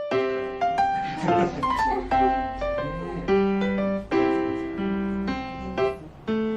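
Background piano music: notes and chords struck about once or twice a second, each ringing down.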